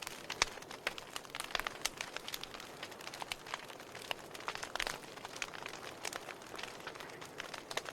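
Wood fire burning with a steady hiss and dense, irregular crackles and small pops.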